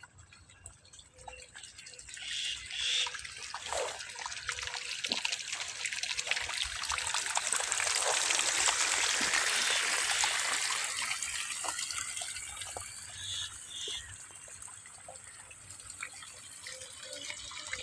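Running water trickling and splashing. It grows louder toward the middle and then eases off, with a few faint short tonal chirps over it.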